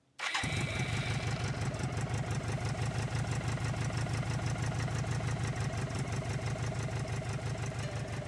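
1985 BMW K100's inline four-cylinder engine running steadily with a rapid even pulse, cutting in suddenly about a quarter second in.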